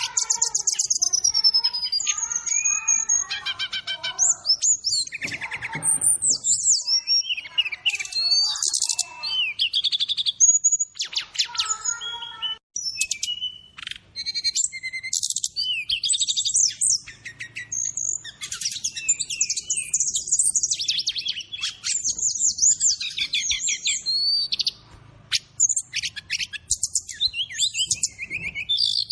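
Brown-chested jungle flycatcher (sikatan rimba dada coklat) song as a tutor track: a nearly continuous run of high, varied whistled phrases, quick glides and rapid trills, with filler calls of other birds mixed in and a couple of short pauses.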